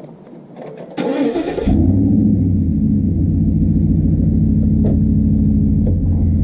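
Truck engine being started: a few light clicks, a short burst of cranking about a second in, then the engine catches and settles into a steady idle.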